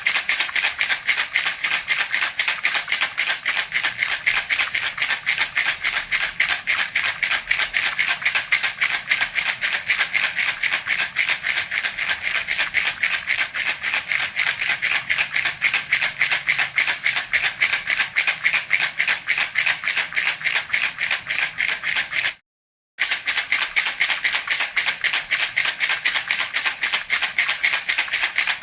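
A baby's jhunjhuna rattle shaken steadily in a rapid, even rhythm, with a bright, dense rattle. It breaks off once for a moment about three-quarters of the way through.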